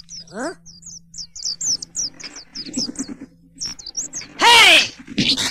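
Small birds chirping in quick, short, high calls, over and over, as background ambience in a cartoon soundtrack. A loud shout cuts across them near the end.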